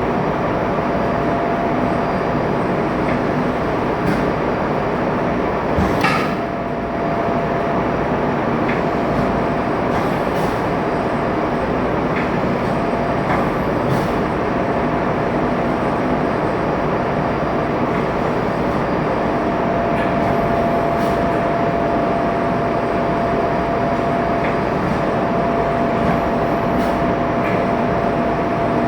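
Steady, loud ship's engine-room machinery noise with a constant whine, broken by a scattered handful of sharp clicks and knocks, the loudest about six seconds in.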